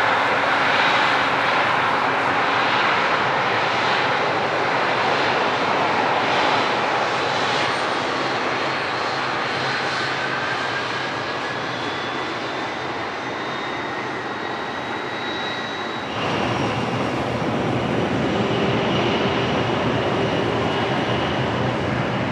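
Four-engine Airbus A380 jet engines (Engine Alliance GP7200 turbofans) at takeoff power on departure: a loud, steady jet noise with faint whining fan tones that slide in pitch, slowly fading. About sixteen seconds in the sound changes abruptly to a louder, steadier rush.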